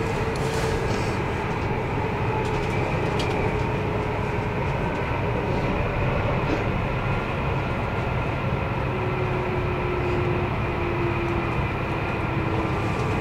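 Commuter train running at speed, heard from inside the carriage: a steady rumble of wheels on rails, with a few faint clicks and a faint whining tone that drifts slightly lower in the second half.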